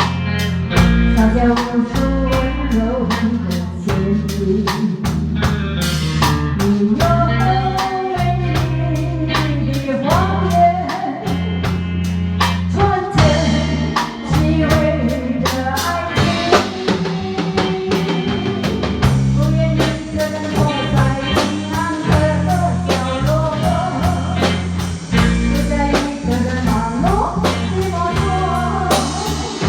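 Small band playing a song in E-flat: a drum kit keeping a steady beat, a bass guitar underneath and a lead melody that glides and bends over the top.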